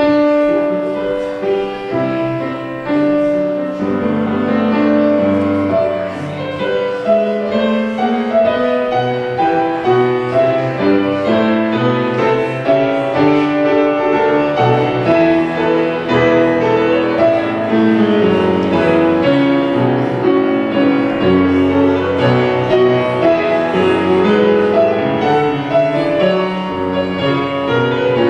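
Instrumental keyboard music: a steady flow of changing notes over held low bass notes.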